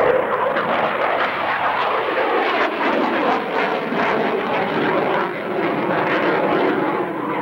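A CF-18A Hornet's twin General Electric F404 jet engines running loud and steady at high power as the fighter is thrown through aerobatic manoeuvres.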